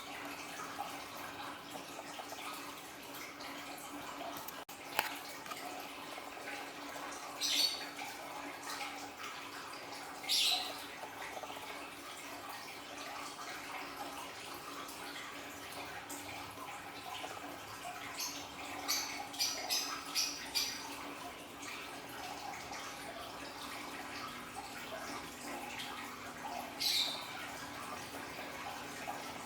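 Water trickling and splashing steadily from a small aquarium waterfall, with a few short high-pitched chirps, several bunched together about two-thirds of the way through.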